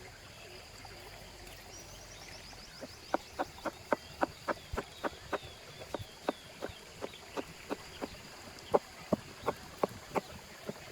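A knife chopping produce on a cutting board in a steady rhythm, about three sharp strokes a second, starting about three seconds in. Faint birdsong behind.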